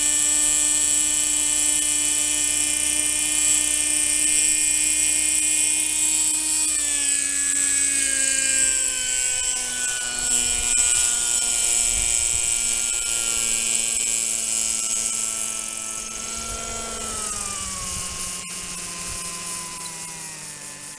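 O.S. 32FH two-stroke glow engine of a Kalt model helicopter running at a steady high pitch, then slowing about seven seconds in, its pitch sliding gradually lower. It drops again and grows quieter near the end as the revs come down.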